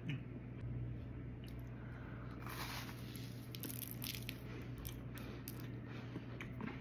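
Close-up mouth sounds of chewing and biting soft desserts, a brownie and then a s'more pie, with scattered small clicks over a steady low hum.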